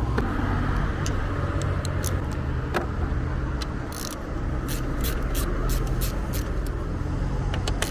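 Car driving at road speed, with steady engine and tyre rumble heard from inside the cabin and a few scattered light clicks.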